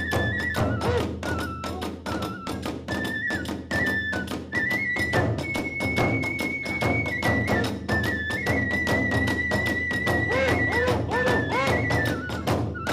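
Kagura hayashi: a bamboo flute plays a high melody of long, stepping notes over fast, driving drum beats and clashing hand cymbals.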